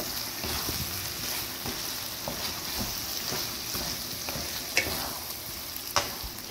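Chicken mince, onions and bitter gourd sizzling in oil in a non-stick pan while a wooden spatula stirs and scrapes through them. Two sharp knocks stand out near the end.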